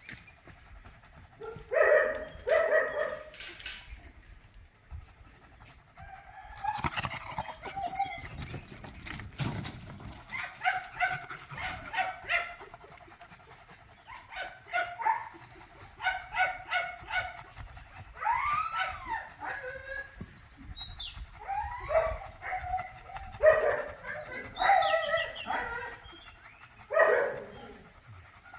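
Several dogs barking and yelping in bursts, with a few drawn-out, wavering whines among the barks.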